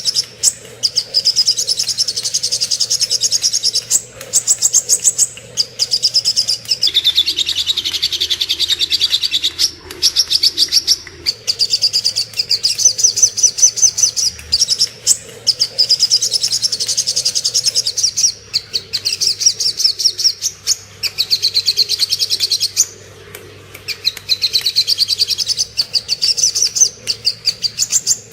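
Sogok ontong (spiderhunter) singing a masteran song: long, rapid trills of high, sharp repeated notes in phrases of a few seconds, broken by brief pauses, with one longer pause about two-thirds of the way through.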